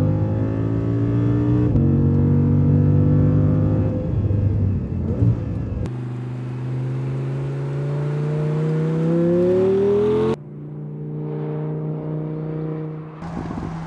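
Audi R8 V10 Spyder's naturally aspirated 5.2-litre V10 revving hard through the gears. The revs climb, drop at an upshift about two seconds in, and there is a sharp pop about five seconds in. A long rising pull then breaks off suddenly into a steadier, quieter engine note.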